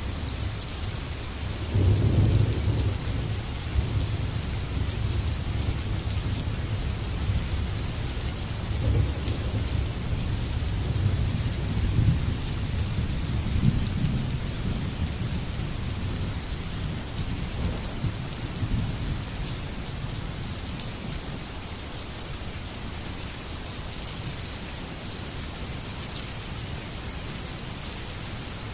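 Heavy rain falling steadily, with a low rolling rumble of thunder that swells about two seconds in and fades away after about twenty seconds.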